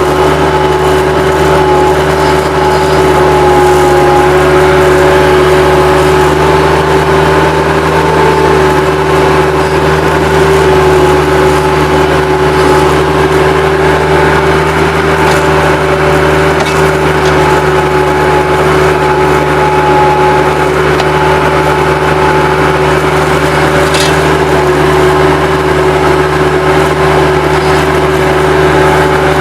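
Bobcat 763 skid-steer loader's diesel engine running steadily at working throttle, with a steady high whine over the drone.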